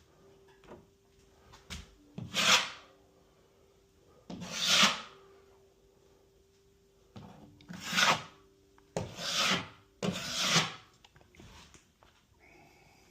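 Hand tool scraping drywall in five separate rough strokes, each under a second, with a faint steady hum between them.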